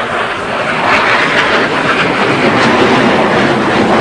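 Dassault Mirage 2000 fighter's single SNECMA M53 jet engine, loud and steady during a low display manoeuvre, growing a little louder about a second in.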